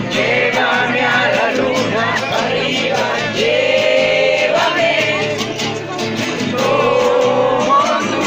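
A group of voices singing a song together, with long held notes, over a steady rhythmic accompaniment.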